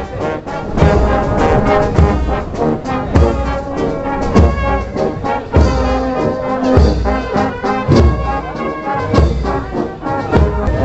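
Brass band playing a tune, with a steady, regularly spaced bass drum beat under the brass.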